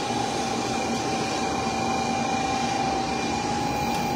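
Shinkansen bullet train standing at the platform: a steady hum of its onboard equipment with a constant whine, over station noise.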